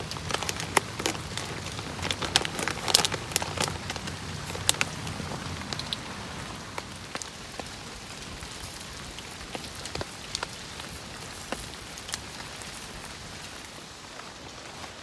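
Rain falling on a camp shelter: a steady hiss full of sharp individual drop taps, thickest and loudest over the first few seconds. A low hum fades out about six seconds in.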